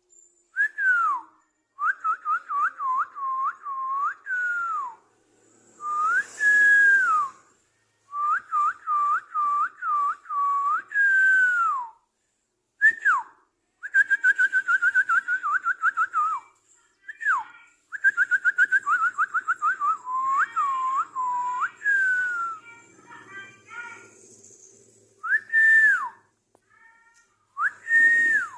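Clear whistling in phrases of quick repeated notes, each phrase ending in a falling slide, with short pauses between phrases.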